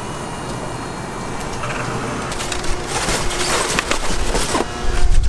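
Oak wood crackling and snapping: irregular sharp cracks starting about halfway, with a heavy low thump near the end.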